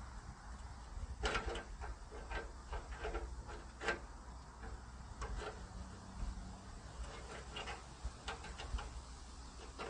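Irregular light metallic clicks and taps of a hand wrench working a bolt on a car's radiator support, over a low rumble.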